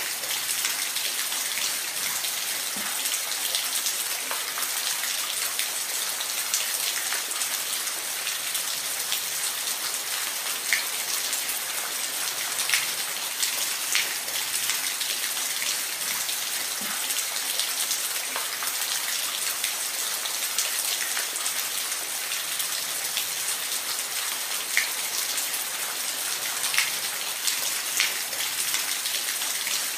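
Waterfall: a steady hiss of falling water, with scattered sharp drip-like splashes.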